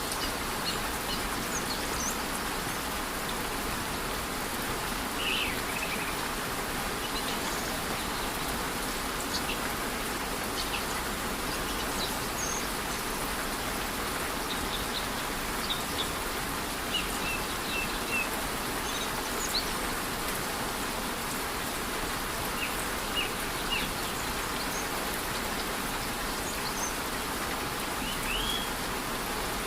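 Steady rush of a rainforest waterfall mixed with light rain, with short high bird chirps scattered throughout.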